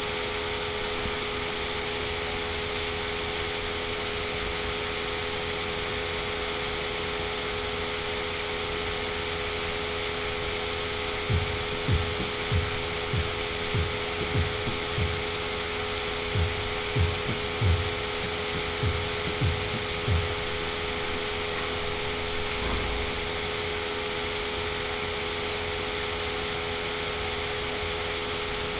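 Steady background hiss with a constant electrical hum. From about 11 to 20 seconds in, about fourteen dull low thumps sound, roughly two a second with short pauses.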